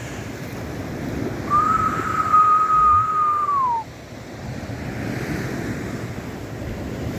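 Wind buffeting the microphone with a rough, rumbling hiss. About a second and a half in, a single steady whistle-like tone sounds for about two seconds and dips in pitch as it ends.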